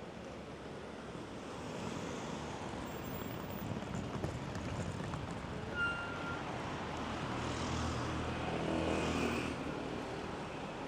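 Road traffic: a motor vehicle's engine passes, loudest about eight to nine seconds in, over a steady rushing haze of traffic and running water. A brief high-pitched tone sounds about six seconds in.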